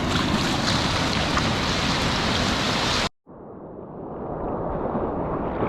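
Steady rushing of wind and surf on an exposed camera microphone, cut off suddenly about three seconds in, then returning muffled and slowly building.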